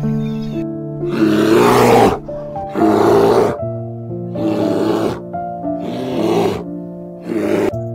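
Brown bear growling in five rough, breathy bursts about a second apart, over soft background piano music.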